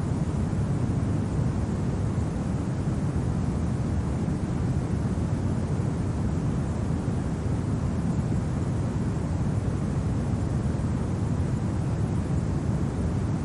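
Steady low winter wind, an even rumbling rush with no gusts or separate sounds standing out.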